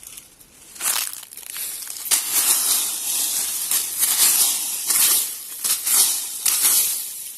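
Leaf litter crunching and rustling as it is disturbed, in a run of uneven bursts starting about a second in.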